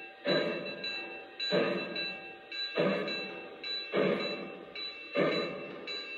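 O scale model steam locomotive's onboard sound system playing a slow, regular steam beat, one hissing pulse about every 1.2 seconds, over a faint steady whine.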